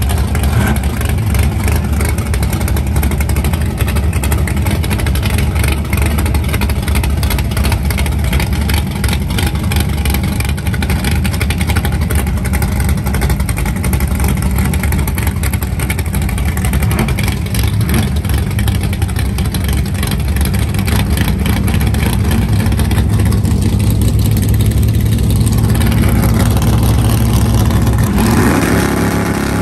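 Modified Chevrolet Chevelle drag car's engine idling loudly with a choppy, uneven lope, then revving with rising pitch in the last second as it leaves the line.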